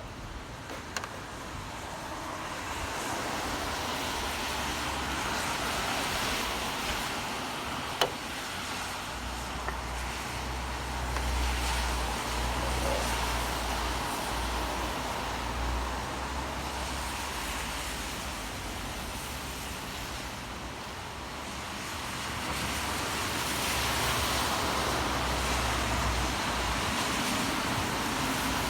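City road traffic on a rain-wet street: a steady hiss of tyres that swells and fades as vehicles pass, with a low engine rumble through the middle and a single sharp click about eight seconds in.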